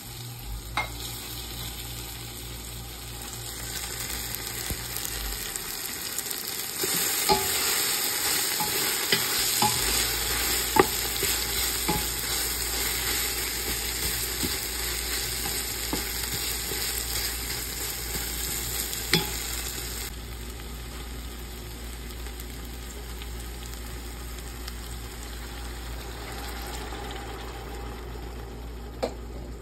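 Sliced red onions and tomatoes sizzling in oil in a stainless steel pot, stirred with a wooden spoon that knocks against the pot now and then. The sizzle swells about seven seconds in and eases back around twenty seconds.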